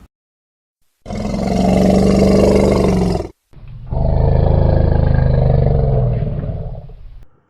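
A large wild animal roaring: two long, loud roars, the second longer than the first, each cutting off sharply.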